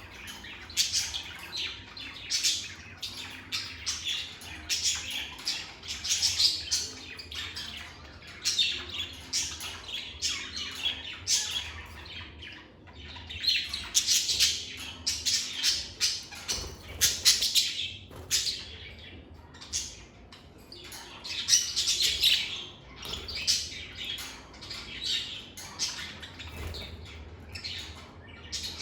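A group of lovebirds chirping and squawking almost without pause, many short, sharp, high calls overlapping in busy bursts.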